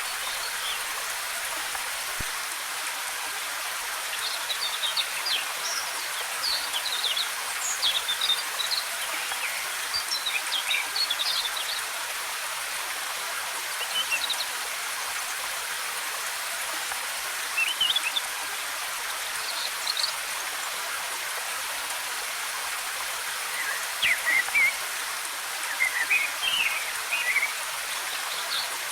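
Steady rushing of a waterfall, with small forest birds chirping in short high twittering phrases over it that come and go, busiest early on and again near the end.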